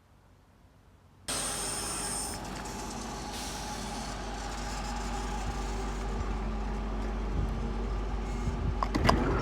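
Near silence, then about a second in the running noise of a Manchester Metrolink tram, heard from inside the carriage, cuts in suddenly: a steady low hum and rumble under a hiss, growing slightly louder as the tram moves.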